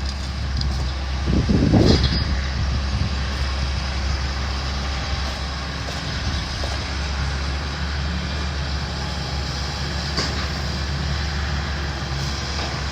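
Demolition excavator's diesel engine running steadily, with a louder, rough surge of noise about a second and a half in.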